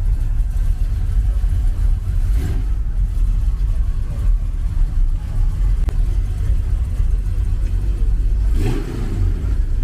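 Steady low rumble of a motor vehicle engine running, with a couple of faint brief knocks.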